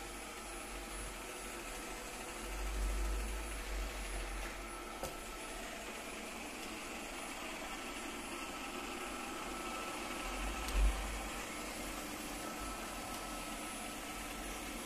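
Midea M7 robot vacuum running, a steady whir with a faint high whine, broken by low rumbles about three and eleven seconds in.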